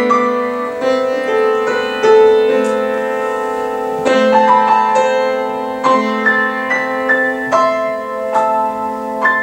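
Solo piano playing a slow, unhurried piece: single notes and small chords struck every half second or so, each ringing on over lower held notes.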